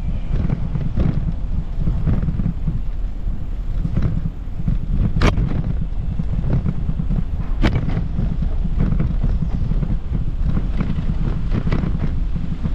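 Wind buffeting the microphone, a steady low rumble, with a few sharp clicks or ticks about five and eight seconds in.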